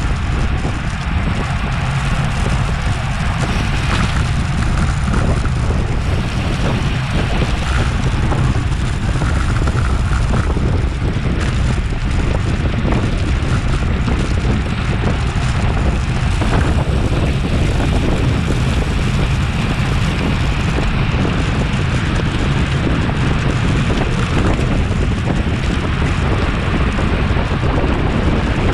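Steady wind rushing over an action camera's microphone on a road bicycle moving at racing speed, a loud, even rumble with no let-up.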